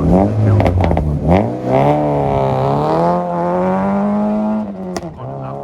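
Rally car's engine revving at the start line with a few sharp pops, then accelerating away through the gears: the pitch climbs, dips at a gear change, climbs again and falls off. A single sharp crack near the end.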